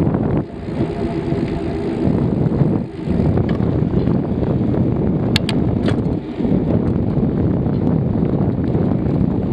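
Wind buffeting the microphone of a camera on a moving bicycle: a loud, steady low rumble, with a couple of short sharp clicks about five and a half seconds in.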